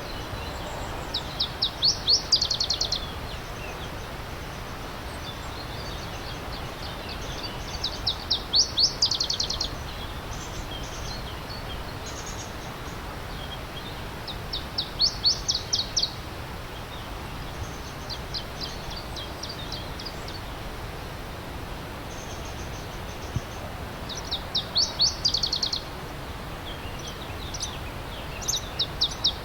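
A songbird repeating the same short song phrase about every six or seven seconds, each a quick run of high notes lasting a second or two, over the steady rush of a stream.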